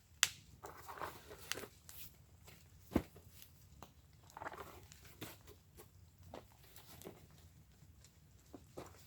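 Wood fire burning in a fire pit, crackling with irregular sharp pops, the loudest just after the start and about three seconds in.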